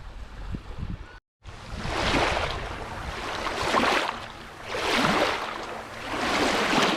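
Sea waves washing onto a beach in repeated surges that swell and fall every second or so, after a second of wind rumbling on the microphone.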